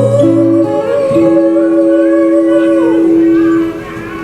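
Female singer holding one long sung note with vibrato at the end of a line of a live ballad, over held chords from the band; the note slides down about three seconds in and the music quietens.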